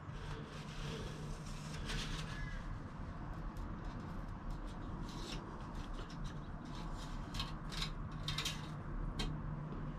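Scattered small clicks and rustles of hands handling the engine dipstick while the oil level is checked, over a faint steady low hum.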